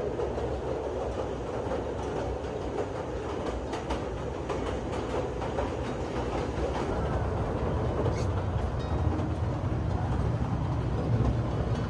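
Kurobe Gorge Railway narrow-gauge sightseeing train running along the track, heard from aboard an open carriage: a steady rumble of wheels on the rails with a few faint clicks.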